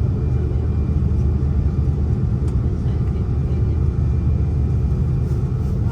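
Steady low rumble of an Airbus A330-300's engines and airflow, heard from inside the passenger cabin.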